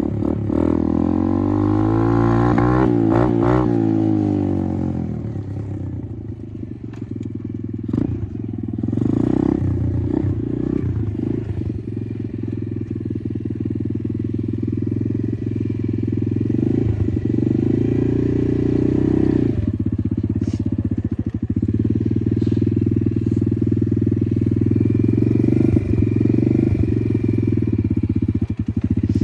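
Apollo RFZ 125 dirt bike's single-cylinder four-stroke engine running under a rider, the pitch swinging up and down with the throttle about two to four seconds in, then running fairly steady with a few short knocks.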